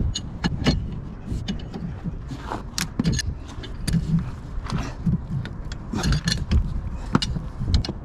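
Irregular metallic clicks and clanks of hand tools and parts being worked on the compressor's engine, over a steady low rumble.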